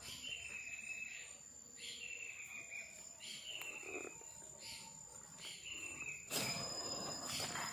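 Night rainforest chorus: a steady high insect whine, with an animal call repeated about every second and a half, each one sliding slightly down in pitch. About six seconds in, a louder burst of noise with no clear pitch breaks in and stays to the end.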